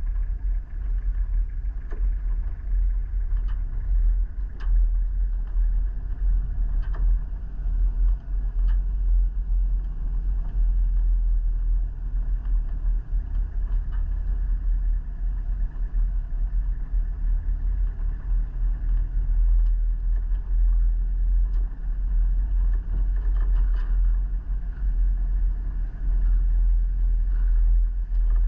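Vehicle on the move: a steady low rumble of engine and road noise, with a few faint clicks and rattles scattered through it.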